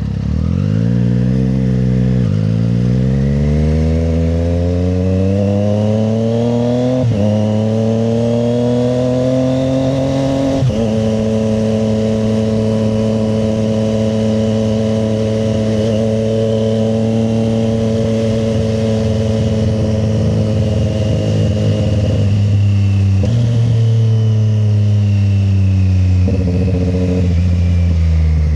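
Triumph Street Triple 765 RS inline-three engine pulling hard through the gears. The pitch climbs and drops three times as it shifts up, then holds a steady cruise. Near the end the revs drop as the throttle eases off.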